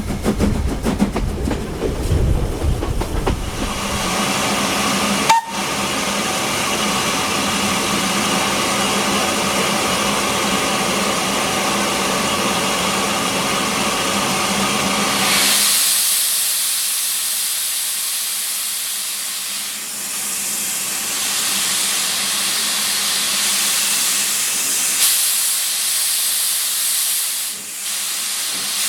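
LSWR S15 steam locomotive and train: a low running rhythm for the first few seconds, then a long steady sound of several pitches at once, like a held steam whistle, for about ten seconds. From about halfway on the running sound is gone and a steady loud hiss of escaping steam takes over.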